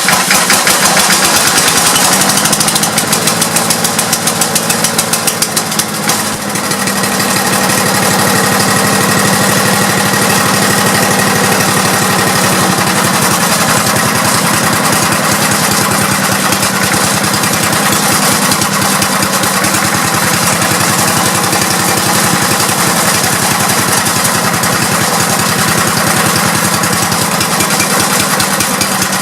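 Craftsman chipper-shredder's 5 hp engine just after starting, running unevenly with a pulsing beat for about the first six seconds, then settling into a steady run. The owner says the engine got water in it.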